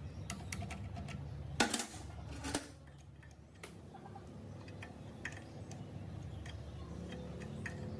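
Light metal clinks and ticks of tools and engine parts being handled during engine assembly, with two louder metal clanks about a second and a half and two and a half seconds in.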